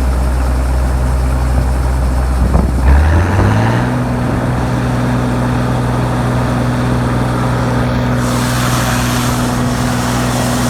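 Tractor engine of an old 7110 running steadily, heard inside the cab. About three seconds in it revs up and holds at the higher speed, throttled up. A rushing hiss joins about eight seconds in.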